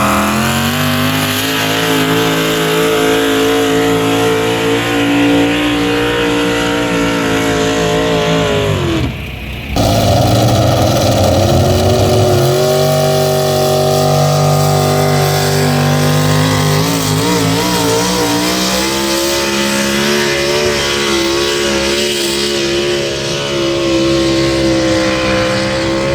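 A pulling vehicle's engine running hard at high, steady revs under load, in two stretches with a cut about nine seconds in. The revs sag just before the cut, and in the second stretch they climb again partway through and hold.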